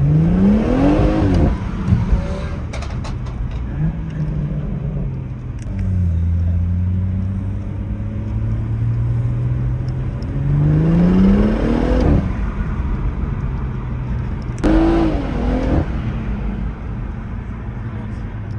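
Car engines running steadily, with three rising revs: one at the start, one about eleven seconds in, and a short blip about fifteen seconds in.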